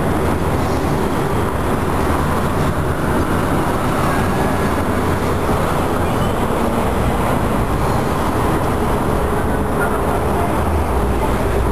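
Steady street traffic noise: a continuous low rumble and hiss of vehicles running past on the road.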